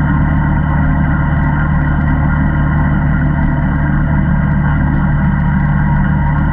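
ATV engine running at a steady speed, with no revving up or down.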